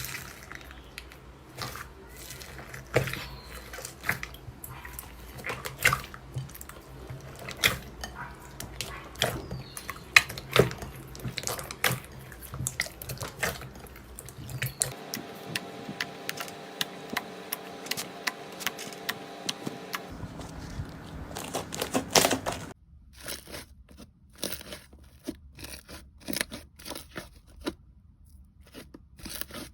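Slime being squeezed and poked by hand, making irregular crackling clicks and pops. The clicks keep coming after the background hum cuts out about two-thirds of the way through.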